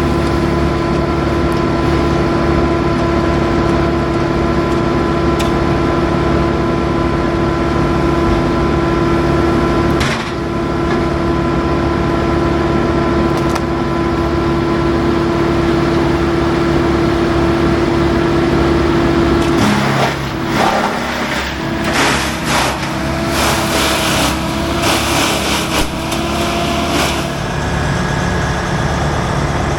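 Heavy machinery engine running steadily. About twenty seconds in the sound turns rough and uneven for several seconds before a steady engine note returns.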